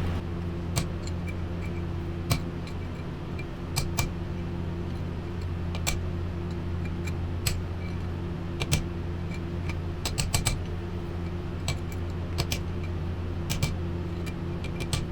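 Irregular sharp metallic taps, knocking an old wheel-bearing race out of a brake rotor hub, over a steady low hum.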